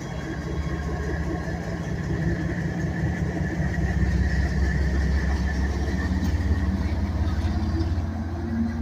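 Diesel-electric locomotive engine running as the locomotive moves through the yard, a deep steady drone with a higher whine over it, growing louder about two seconds in and easing slightly near the end.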